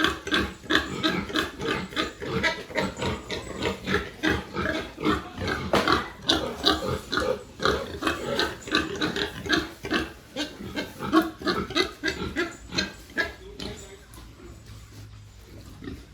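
Pigs grunting: a dense run of short grunts, several a second, which thins out and grows quieter near the end.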